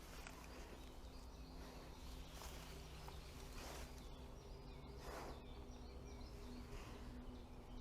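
Faint outdoor ambience: a steady low hum and hiss, a few soft rustles, and faint bird chirps in the second half.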